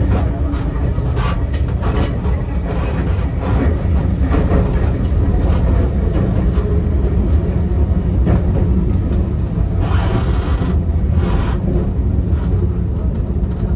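Enoden electric train running and slowing into a station, heard from the cab: a steady low rumble of wheels on rails, with a few sharp knocks from the wheels over the track about two seconds in and again near the end.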